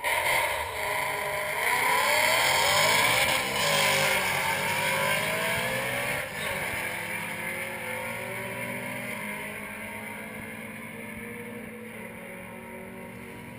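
BMW E92 M3's 4.0-litre V8, straight-piped with muffler and resonator deleted, revving with the exhaust note rising and falling in pitch. It is loudest in the first few seconds, then fades gradually through the second half.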